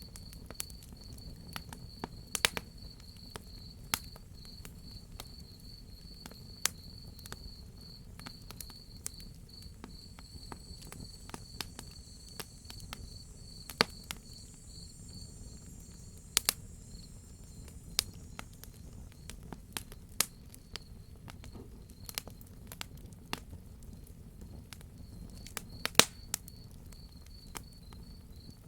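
Wood fire crackling, with sharp pops at irregular intervals, the loudest about two and a half, sixteen and twenty-six seconds in, over a low steady rumble. Behind it a cricket chirps in an even, fast pulsed trill, and a fainter, higher insect trill joins for several seconds in the middle.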